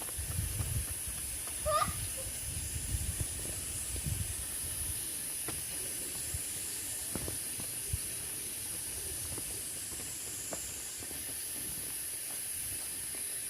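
A steady high-pitched hiss throughout, with low rumbling in the first few seconds and a few faint clicks.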